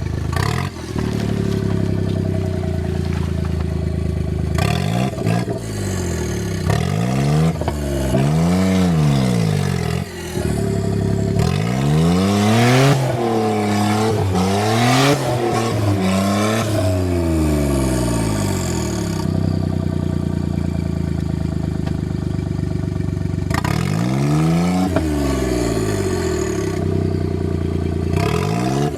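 Suzuki Jimny JA11's small engine revving up and down in repeated surges, the longest in the middle, with steadier lower running in between, as the 4x4 is worked through a rough off-road section.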